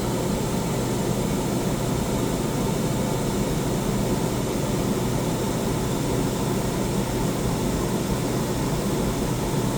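Two Dometic Penguin II 13.5k rooftop RV air conditioners running together with their fans on high and the ceiling dump open, heard inside the coach: a steady rush of air over a low hum, which the sound meter puts at about 75 decibels.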